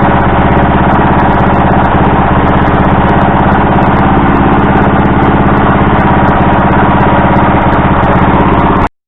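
Small engine of a project four-wheeler running steadily on one of its first runs after being brought back to life. It cuts off suddenly near the end.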